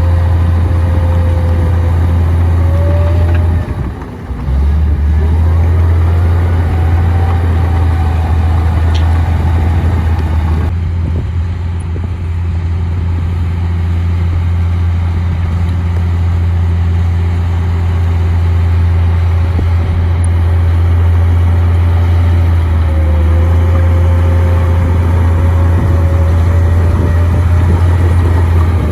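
Komatsu D58P bulldozer's diesel engine running steadily under load, with a wavering whine above the deep engine note. The sound dips briefly about four seconds in.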